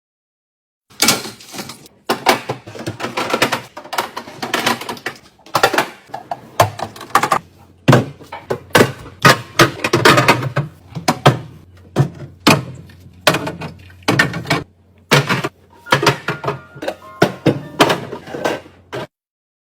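Irregular knocks, thunks and clatter of groceries and plastic containers being handled and set down while a fridge is cleaned and packed. A low steady hum comes in about eight seconds in.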